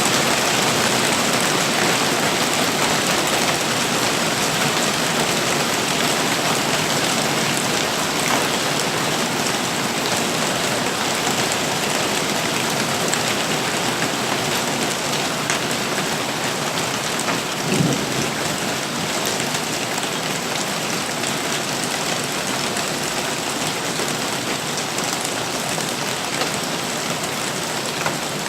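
Heavy storm downpour: a dense, steady hiss of rain pelting down, easing slightly over time, with a short low thump about two-thirds of the way through.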